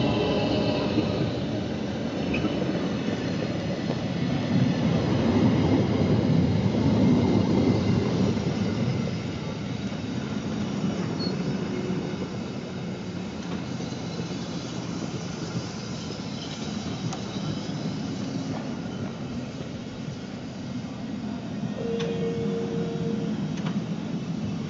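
Rhaetian Railway metre-gauge passenger coaches rolling past, a steady rumble of wheels on rail that is loudest a few seconds in and eases off after that. Near the end a short steady tone sounds for about a second and a half.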